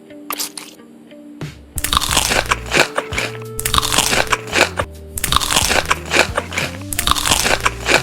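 Close-up crunching of crisp food being bitten and chewed, a few sharp bites at first, then loud, continuous crunching in bursts from about two seconds in.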